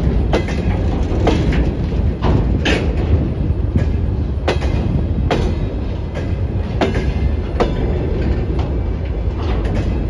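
Freight train of open gondola wagons rolling past close by: a steady low rumble of wheels on rail, with sharp clacks every half second to a second as the wheels cross the rail joints.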